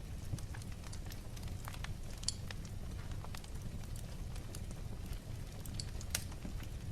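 Wood fire crackling in a fireplace: scattered sharp pops and snaps over a low steady rumble, with louder pops a little after two seconds and about six seconds in.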